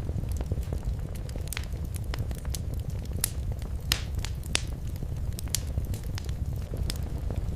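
Wood fire in a fireplace crackling, irregular sharp pops and snaps over a steady low rumble of the flames, a few louder pops near the middle.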